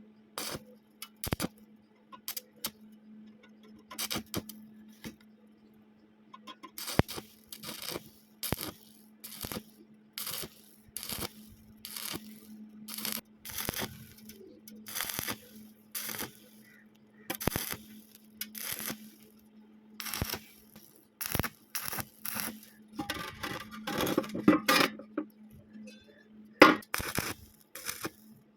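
Arc welding on thin square tubing done in short stitches: the arc is struck and broken again and again, each a brief crackle, with a longer run of crackling a little past the middle and near the end. A steady low hum lies under it throughout.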